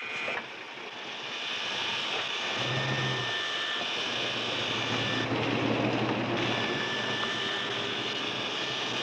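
A 1980s Lincoln Town Car's engine running as the car pulls away and drives off, over a steady wash of road and engine noise, with a low engine hum coming in briefly and then more steadily in the middle.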